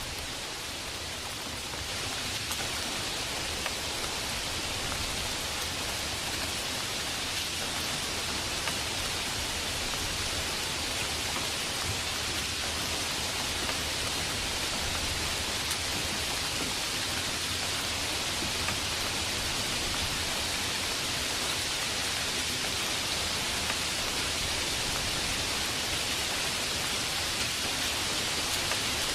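Heavy rain falling as a steady, even hiss, a little louder from about two seconds in.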